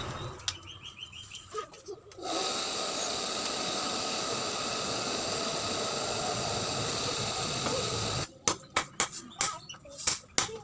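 A power tool runs steadily with a high whine for about six seconds, then stops, and a quick run of sharp metallic knocks follows.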